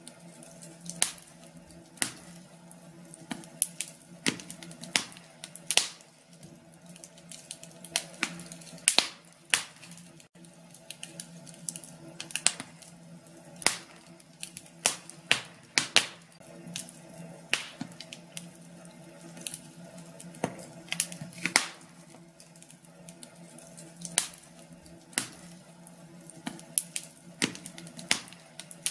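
Fire burning in a fireplace, crackling: irregular sharp pops and snaps, a few a second, over a faint steady low background.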